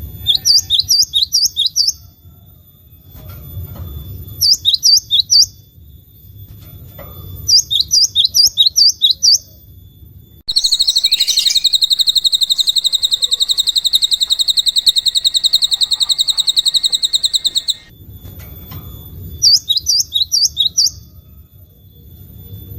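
Recorded songbird calls: short bursts of about seven quick, high, downward-slurred chip notes, repeated every few seconds, broken in the middle by a long, unbroken, very fast high trill lasting about seven seconds.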